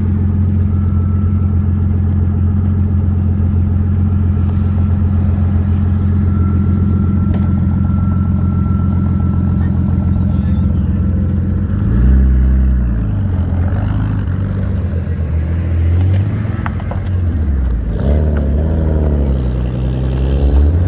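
Car engines idling steadily, then from about twelve seconds in, engine revs rising and falling repeatedly as cars accelerate away and change gear.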